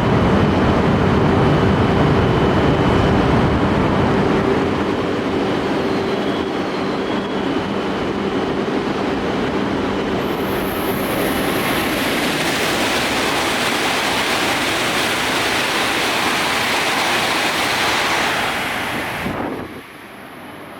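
Coupled E5 and E6 Shinkansen trainsets passing through the station at speed with a loud, steady rushing noise. A high hiss joins about halfway through, and the sound falls away sharply near the end as the train clears.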